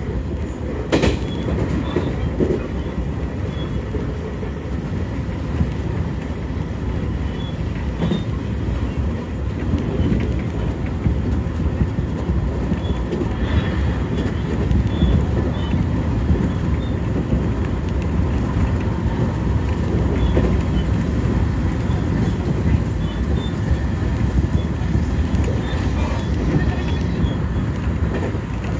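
Cabin noise of an electric commuter train running along the line: a steady low rumble of wheels on rails, with a few short clicks.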